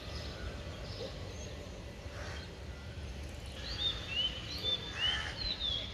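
Birds chirping in quick, short calls over a steady low background rumble. The chirps start a little past the middle and continue to the end.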